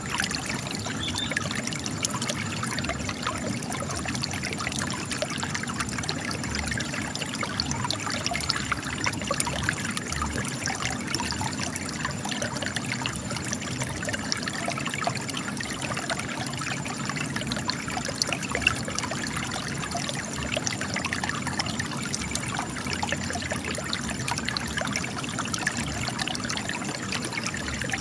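Spring water gushing from cracks in rocks and trickling over stone: a steady, dense patter of small splashes and drips with no pauses.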